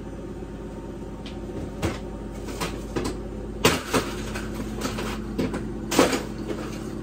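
Ice being broken up by hand: a series of sharp cracks and knocks at irregular intervals, the loudest about three and a half and six seconds in.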